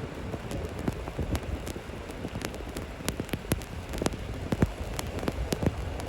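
Precipitation striking a surface in irregular sharp ticks, several a second, over a steady hiss.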